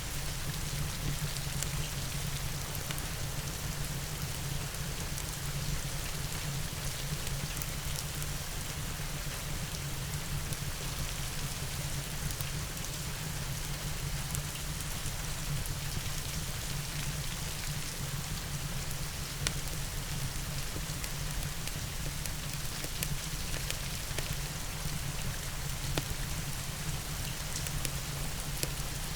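Steady rain and a fireplace mixed together: an even hiss of rain with a low rumble underneath, and a few sharp crackles scattered through it.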